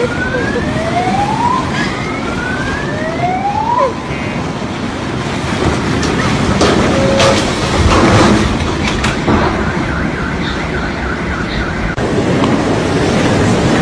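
A siren's rising whoops, about two of them in the first four seconds, over a loud, steady rushing noise. A faint, fast run of short repeated tones follows later.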